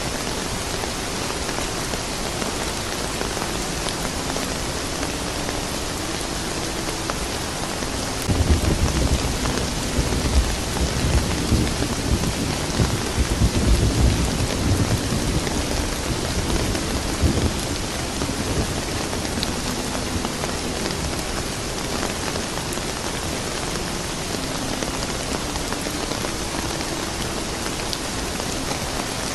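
Steady rain falling, with a low rumble of thunder from about a third of the way in that swells and fades out a few seconds before halfway through.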